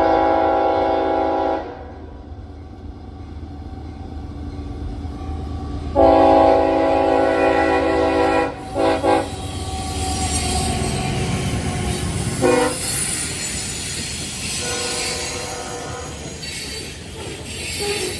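Freight locomotive horn blowing several blasts: one ending about a second and a half in, a long one about six seconds in followed by two quick short toots, then shorter and fainter blasts. Under the later blasts the rumble and wheel-on-rail noise of the passing train grows.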